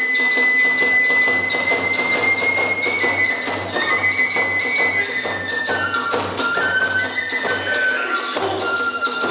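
Kagura hayashi music: a bamboo transverse flute (fue) holding long, stepping notes over fast, driving beats of the drum and small hand cymbals.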